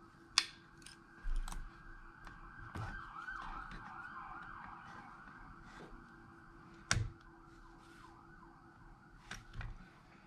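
A faint siren wailing up and down steadily, with a few sharp clicks of small tools on the phone, the loudest about seven seconds in.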